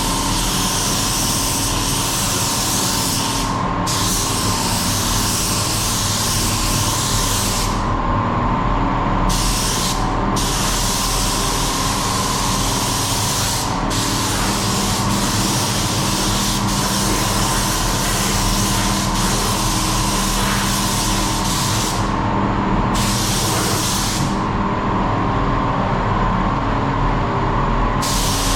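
Compressed-air paint spray gun spraying in long passes, its hiss stopping briefly between passes several times, over a steady mechanical hum.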